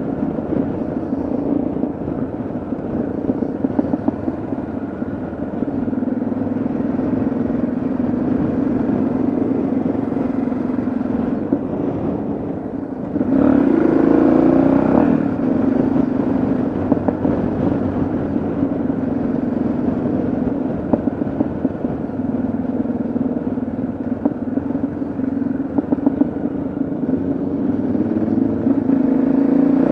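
Yamaha XT660Z Ténéré's single-cylinder engine running on the road with a steady note. About halfway through it gets louder and the pitch climbs as the bike accelerates, and it climbs again near the end.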